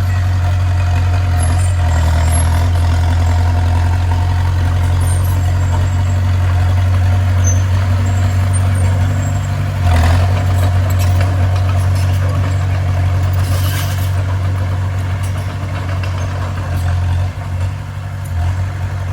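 Heavy diesel engine of earthmoving machinery running steadily with a deep hum, with a single knock about halfway through.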